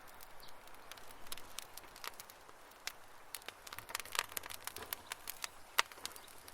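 Wood campfire crackling and popping: irregular sharp snaps over a faint steady hiss, with a louder pop near the end.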